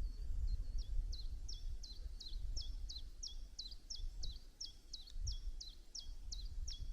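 Common chiffchaff singing: a long run of short, high, repeated notes, about three a second, starting just after the start and running on. A low rumble sits underneath.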